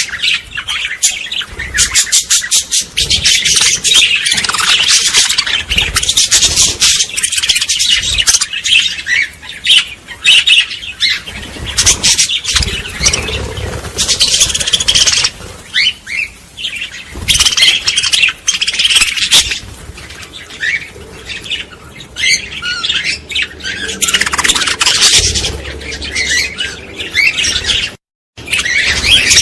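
A flock of small birds chirping and squawking over one another in a dense, continuous chatter of short, high calls and trills. It cuts out completely for a moment near the end, then resumes.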